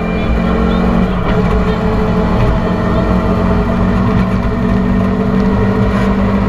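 Rally car engine running hard under acceleration, heard from inside the cockpit. The engine note shifts about a second in, then holds steady and slowly climbs.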